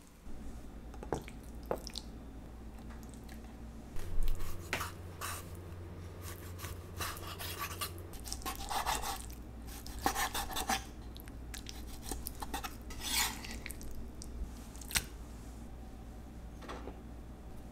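Kitchen utensils clinking and scraping against cookware in scattered strokes, over a low steady hum that gets louder for a few seconds about four seconds in.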